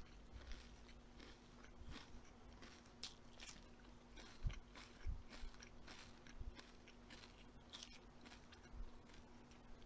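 Faint crunching and chewing of crisp food, a run of irregular small crunches and clicks with a few duller bites near the middle, over a steady low hum.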